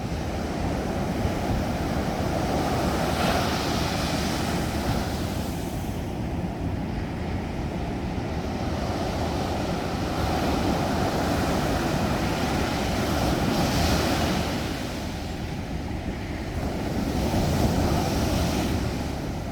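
Sea surf breaking and washing up the beach in a continuous rush that swells and eases every few seconds, with wind buffeting the microphone.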